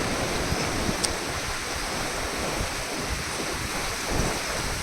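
Steady rush of water from a mountain waterfall, with low gusts of wind buffeting the microphone.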